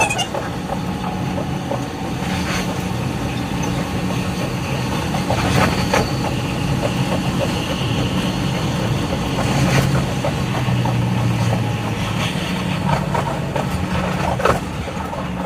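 Train running along the line, played back sped up: a steady hum with level motor tones, a faint higher whine through the middle, and a few sharp clicks scattered through it.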